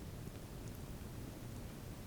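Campfire of burning wood: a steady low rumble with a few faint crackles.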